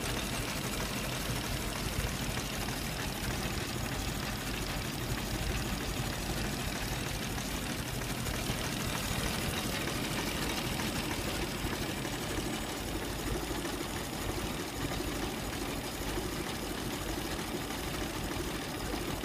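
Mors 1913 3.3-litre four-cylinder sleeve-valve ("sans soupape") engine idling steadily, with a smooth, even running sound.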